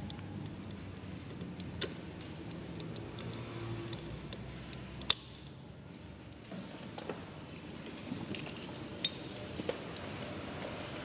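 Sharp metallic clicks and taps of bobbin cases being fitted into the rotary hooks of a twin-needle industrial sewing machine, the loudest about halfway through and a quick run of them near the end, over a low hum in the first half.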